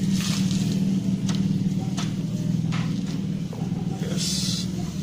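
A steady low machine drone, with a few sharp metallic taps on the metal work and a short hiss about four seconds in.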